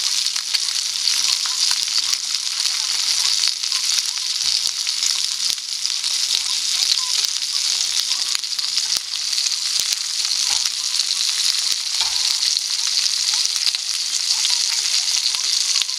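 Food sizzling steadily in a hot de Buyer crepe pan over a campfire, with a bright hiss and scattered small crackles throughout.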